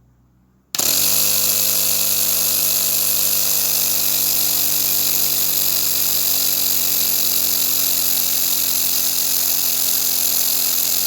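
Small portable air compressor switching on about a second in and running steadily with no load, its outlet open, as a test run of a broken conrod area repaired with glue and nail gussets.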